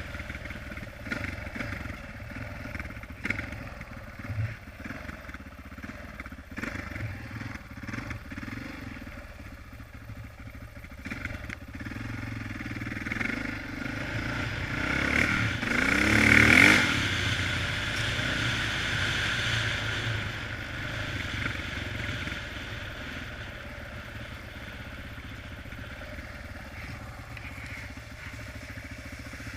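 Honda XR650R dirt bike's single-cylinder four-stroke engine running while being ridden. The revs and loudness climb to a peak about halfway through, then drop back to a steady cruise.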